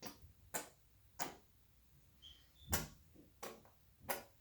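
A series of light, sharp taps or clicks, about six of them spaced roughly half a second to a second apart, the loudest near three seconds in.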